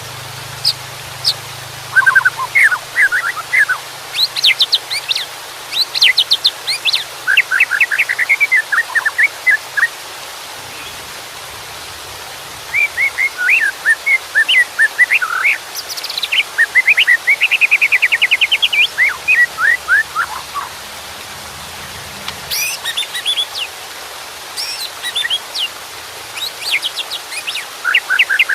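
White-rumped shama singing in loud, varied phrases of rapid whistles and trills, with short pauses between bursts, over a steady hiss of running water.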